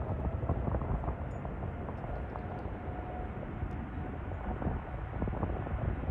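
Jet airliner engine noise at a distance: a low rumble with a faint steady whine in the middle, overlaid by crackling wind buffeting on the microphone.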